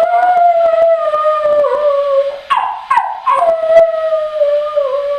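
A long howl, held about two and a half seconds and sliding slowly down in pitch, then a few short rough yelps and a second long howl that drops away at the end.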